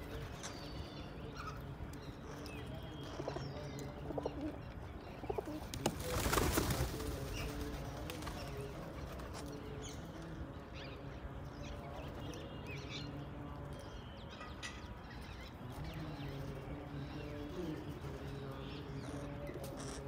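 Birds cooing, low calls repeating over and over, with scattered higher chirps. A brief loud rush of noise comes about six seconds in.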